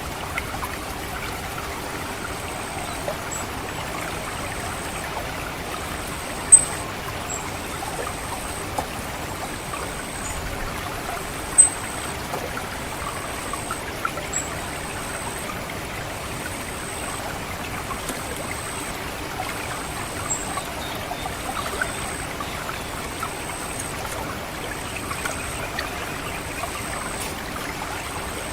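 Orange-headed thrush giving short, sharp, high 'cit' call notes at irregular intervals, two of them much louder than the rest. Underneath runs the steady trickle of water flowing through a rice paddy.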